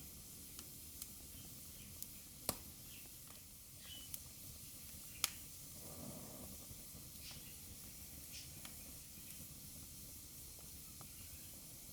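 Wood fire burning in a fireplace: a steady soft hiss with scattered sharp crackles and pops, the loudest about two and a half and five seconds in, and a brief soft low rush of flame around six seconds in.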